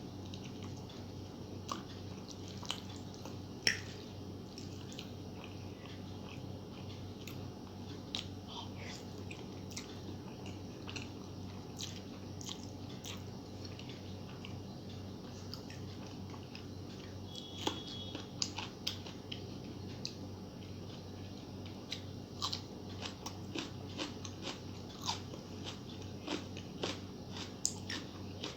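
A person eating noodles with egg masala and raw onion close to the microphone: chewing and biting with many small, sharp mouth sounds, coming thicker over the last ten seconds.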